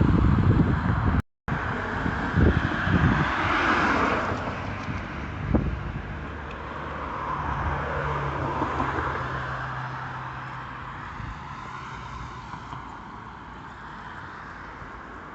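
Road traffic: cars passing one after another, their tyre noise swelling and fading. Wind buffets the microphone at the start. The sound drops out briefly about a second in.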